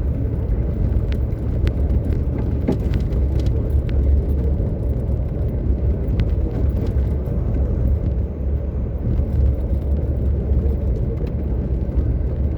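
Steady low rumble of a vehicle driving, heard from inside the cabin, with a few faint clicks.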